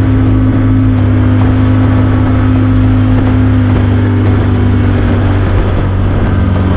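Skiff's outboard motor running steadily under way, a constant low drone with a steady hum above it.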